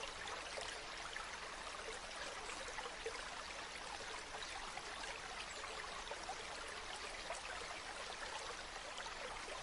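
A river running steadily over stones, a constant rushing with fine splashes and trickles.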